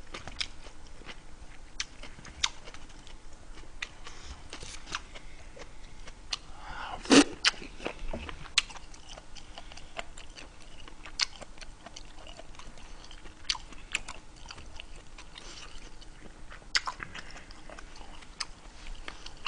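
A person chewing and biting food close to the microphone, with many scattered small clicks; one louder sharp click comes about seven seconds in.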